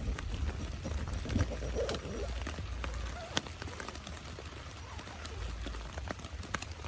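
Rain falling, with scattered sharp drops tapping over a steady low rumble, and a brief mid-pitched sound about one and a half to two seconds in.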